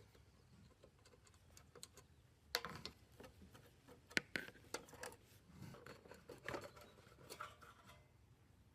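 Hand work on an amplifier: irregular small clicks, taps and short scrapes of tools and parts being handled, starting a couple of seconds in and stopping shortly before the end.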